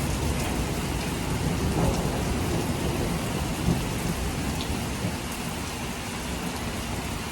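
Heavy rain pouring down steadily, with a low rumble of thunder under it that eases off after the first few seconds.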